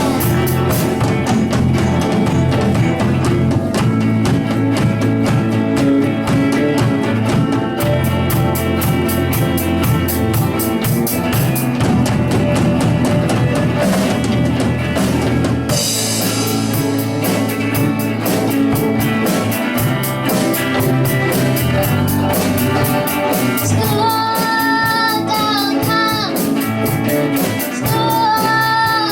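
A young rock band playing live, with drum kit, electric guitar and bass. Sung vocal lines come in about 24 s in and again near the end.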